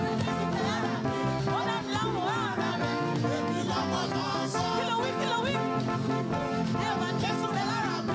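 Live praise music from a church band, with a melody line that slides up and down in pitch over a full, continuous accompaniment.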